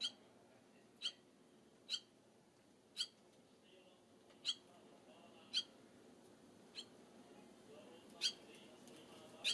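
Barn swallow giving short, sharp chirps, about one a second, nine in all.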